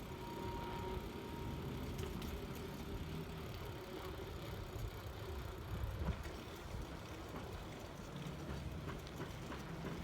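Steady low rumble of wind and road noise from a moving bike, swelling and easing irregularly, with a few faint clicks.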